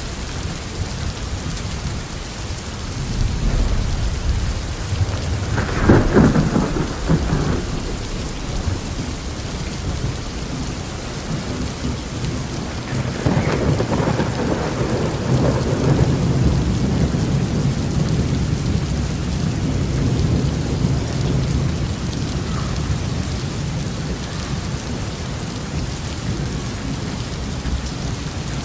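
Heavy rain falling steadily on a roof, with low rolling thunder underneath. Two louder thunderclaps stand out: a sharp crack about six seconds in, and a longer rumbling peal from about thirteen to sixteen seconds.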